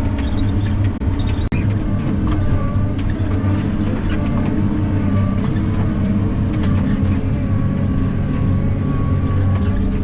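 Skidder's diesel engine running steadily under load, with a faint wavering whine above the engine note.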